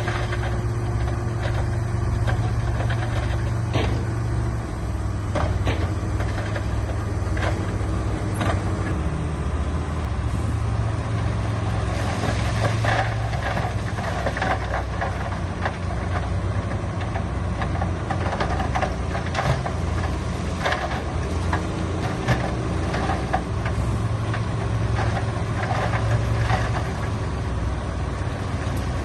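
Diesel engine of heavy earthmoving equipment running steadily, with scattered knocks and clanks throughout.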